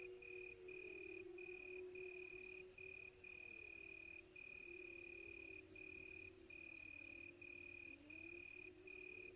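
Crickets trilling in a steady high pitch, broken by short gaps, over faint, distant wolves howling in several long, wavering, overlapping tones.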